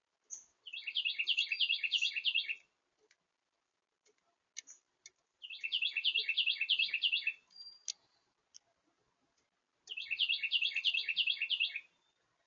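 A songbird singing the same trilled song three times, each about two seconds of quick repeated notes, with pauses of a few seconds between.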